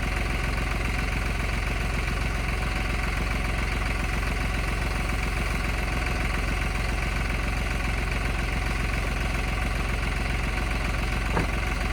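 Tractor engine running steadily at an even, unchanging speed, with one short click near the end.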